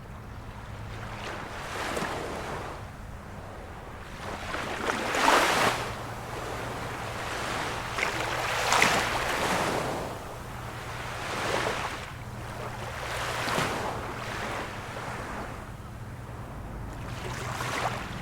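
Small waves of a calm sea washing in one after another, a swell of hiss every two to three seconds, the loudest two about five and nine seconds in.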